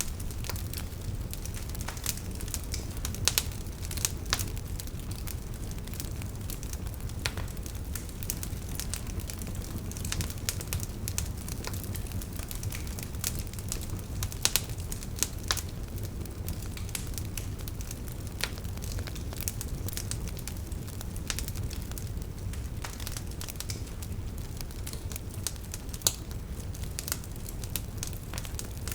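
Campfire burning, with constant irregular crackling and snapping of burning wood over a steady low rumble of the flames, and a few sharper pops standing out.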